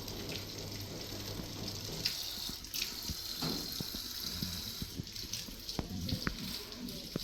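Water running, with scattered light clicks and knocks from about two seconds in.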